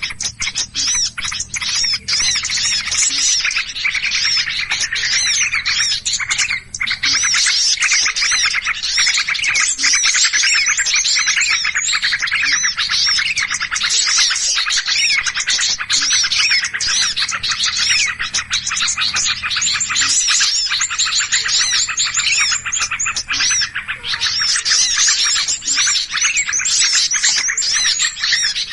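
A dense chorus of many small birds chirping and calling at once in a continuous, unbroken commotion. It is a bird-lure recording of agitated, noisy small birds, meant to draw other small birds in.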